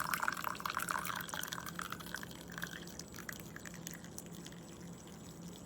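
Hot coffee pouring from a pour-over carafe into a cup; the stream breaks up into drips about a second or two in and fades away.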